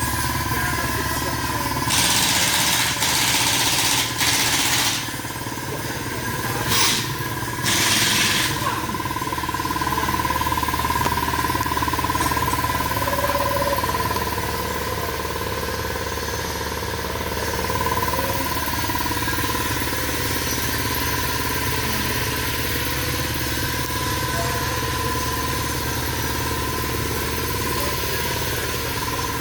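A car engine idling with a choppy, pulsing low rumble and a steady high whine. Loud rushing bursts come in about two to five seconds in and again around seven to eight seconds in.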